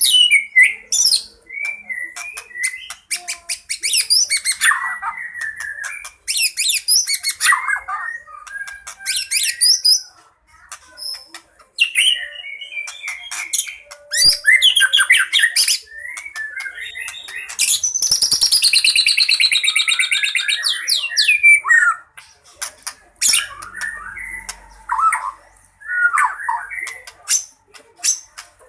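White-rumped shama singing a fast, varied fighting song packed with mimicked phrases, broken by sharp clicks, with a long rapid trill of repeated notes about two-thirds of the way through.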